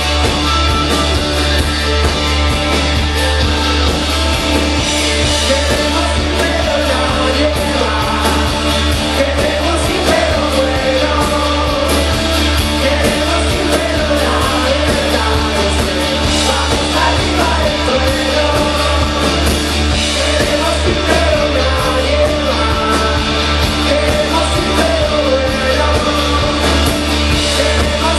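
Live rock band playing loud and steady, with a singer's voice coming in over the instruments a few seconds in.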